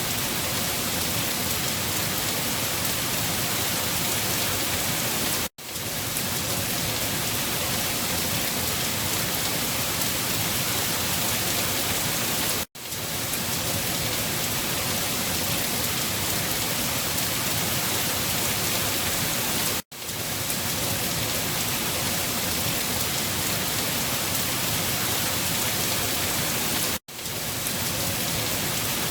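Steady rain falling, an even hiss across all pitches. It cuts out for an instant four times, about every seven seconds.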